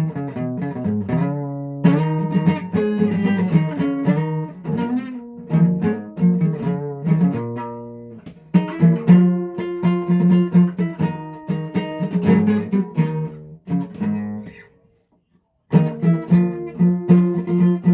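Guitar played solo, picked notes and strummed chords; the playing dies away to a brief silence about three-quarters through, then starts again.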